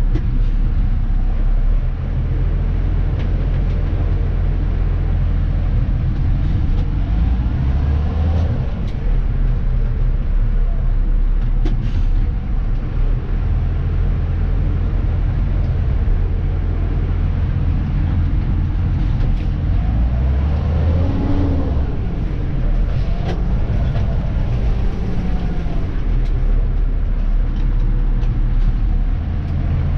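Dennis Elite 2 refuse truck's diesel engine running, heard from inside the cab, with its pitch rising and falling around 8 seconds in and again around 21 seconds.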